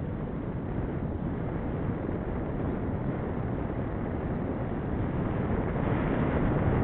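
Wind rushing over the microphone of a camera riding on a moving bicycle: a steady low rumble that grows a little louder near the end.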